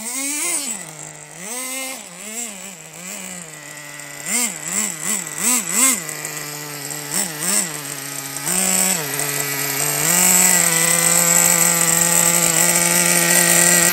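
Team Associated RC10GT2 truck's nitro two-stroke glow engine being revved in repeated quick blips, its pitch rising and falling each time. For the last few seconds it runs steadily and louder at a constant pitch.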